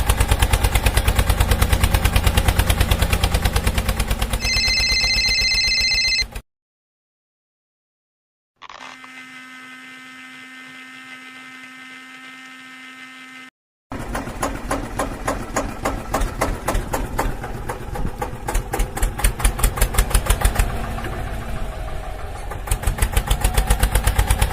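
Rapid, even mechanical chugging, broken by cuts: about two seconds of silence, then a few seconds of a quieter steady hum, then the chugging starts again. A high steady tone sounds briefly over the first stretch of chugging.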